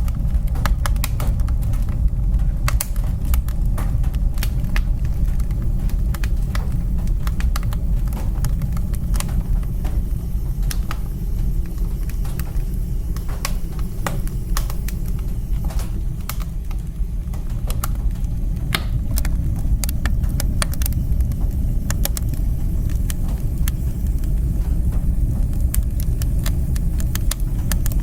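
Wood fire burning in a fireplace, a steady low rumble of flame with frequent, irregular sharp crackles and pops.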